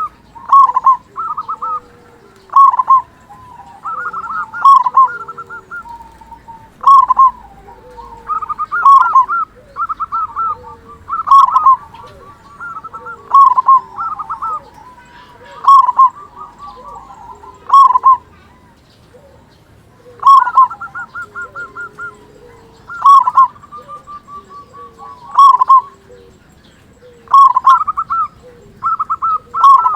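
Zebra dove (perkutut) cooing over and over: each phrase is a quick run of staccato notes ending in a louder coo, repeated about every two seconds.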